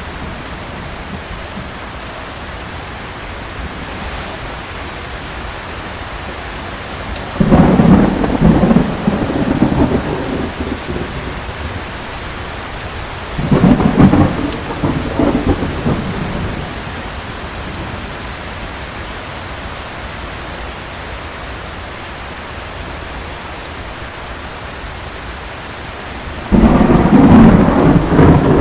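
Heavy rain falling steadily, with three sudden peals of thunder: one about a third of the way in, another a few seconds later, and a third near the end, each rumbling for a few seconds before fading.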